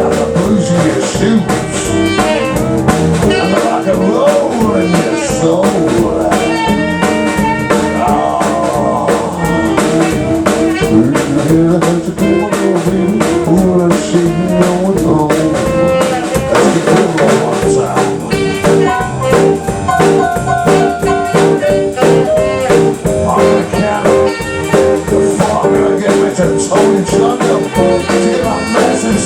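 Live blues band playing, with electric guitar over a drum kit.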